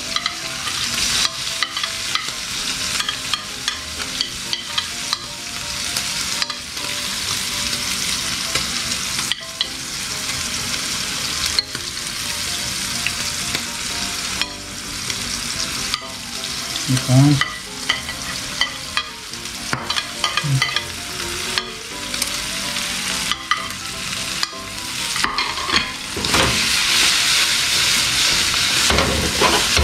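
Pancetta and chopped vegetables sizzling in oil in a frying pan, with a metal spoon clicking and scraping as the ingredients are pushed off a plate into the pan. A single dull knock comes about halfway through. Near the end the sizzle grows louder as the pan is tossed over the flame.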